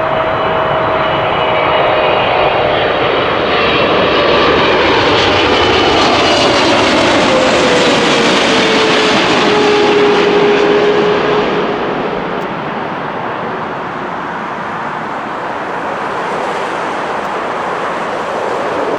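Boeing 777-300ER jet airliner passing by on arrival. Its GE90 engines give a loud rumble with a whine that falls in pitch as it goes past, then the noise eases off about twelve seconds in.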